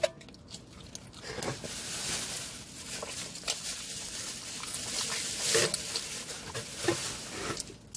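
Close-up eating sounds of someone chewing pizza, a rough wet noise with a few sharper clicks, about three and a half, five and a half and seven seconds in.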